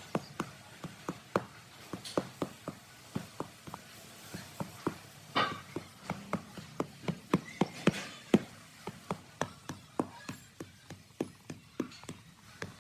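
A series of sharp knocks, about two or three a second, slightly irregular, with the loudest one about eight seconds in.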